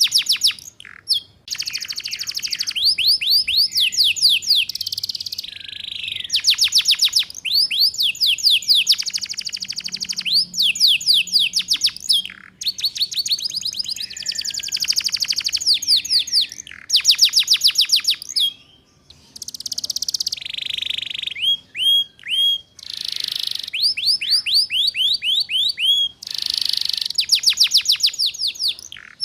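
Domestic canary singing long phrases of rapid trills and quick chirp runs, broken by short pauses, in the fast chattering 'ngeriwik' style.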